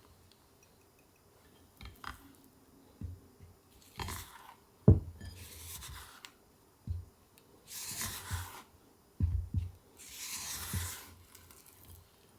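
Food-preparation handling sounds: soft knocks and a sharp click a little under five seconds in, then three separate rustling or scraping passages of about a second each.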